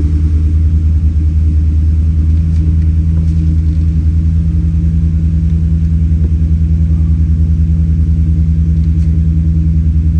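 2018 Chevrolet Silverado engine idling with a steady low rumble and an even pulse. The engine appears to still be misfiring on one cylinder after the injector swap.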